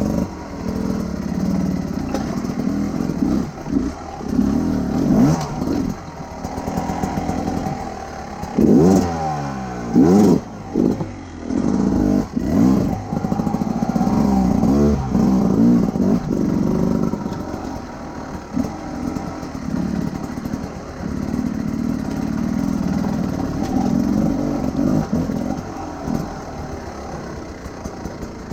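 Large adventure motorcycle engine running under way, the throttle opened and closed. Its pitch sweeps up and down several times around the middle, with short dips in between, like gear changes.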